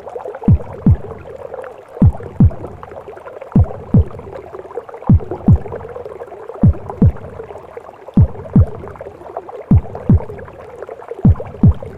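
Recorded heartbeat in a womb-sound mix: slow double thumps, lub-dub, about every second and a half, over a steady whooshing womb noise.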